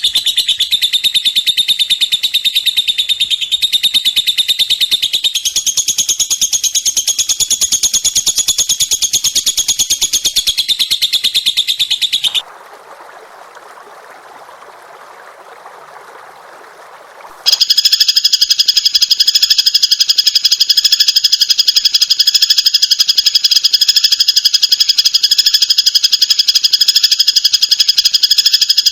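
Bird-song training recordings of caged songbirds: a loud, very rapid, high-pitched trilling song, broken partway through by about five seconds of quieter hiss, then a second fast, dense rattling song.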